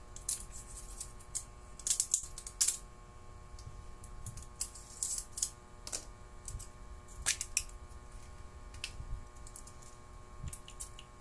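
Irregular light clicks and taps of a small perfume bottle being handled and opened, a few of them in quick clusters.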